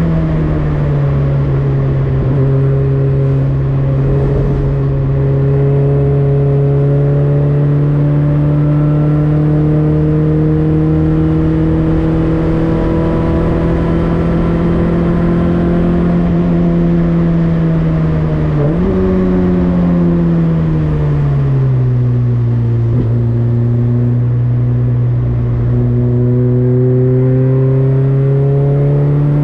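A Citroën Saxo race car's four-cylinder engine, heard onboard, pulling hard under load. Its pitch drops at a gear change just after the start and climbs slowly for a long stretch. About two-thirds through there is a quick jump, then the pitch falls for a few seconds as the car slows, before it rises again near the end.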